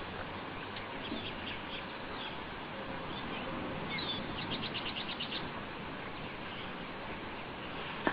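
Small birds chirping in short high calls, with one rapid trill of about ten quick notes around the middle, over a steady background hiss.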